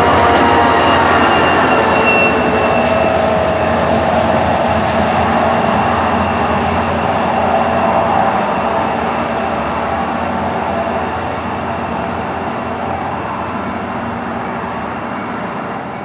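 Diesel-hauled commuter train rolling by on the rails, with a few thin wheel-squeal tones in the first few seconds. The rumble steadily fades as the train moves away.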